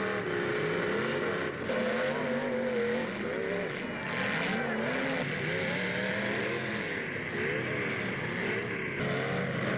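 Engines of full-size demolition derby cars revving, their pitch rising and falling again and again, with no single crash standing out.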